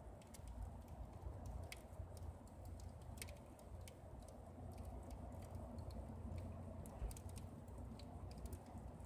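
Wood campfire crackling: irregular sharp snaps and pops, a few a second, over a low steady rumble.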